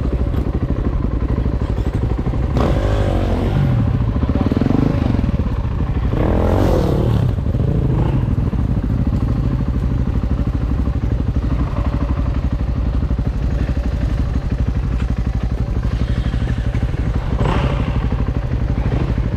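Motorcycle engine running steadily, with a few brief swells of throttle a few seconds in and again near the end.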